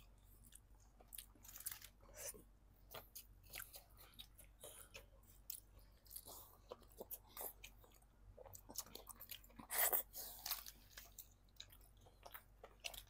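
Close-miked chewing and biting of crispy fried chicken: small irregular crunches and mouth sounds, with a louder crunch about ten seconds in.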